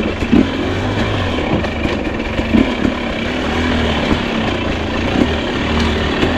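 Two-stroke enduro dirt bike engine running at low, fairly steady revs during slow trail riding, with a few brief throttle blips.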